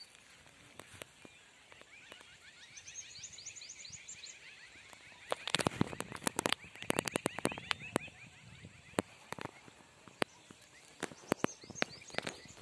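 Outdoor forest ambience: a bird sings rapid runs of short chirps, and bursts of sharp clicks and crackles, the loudest sounds, come about five seconds in and again near the end.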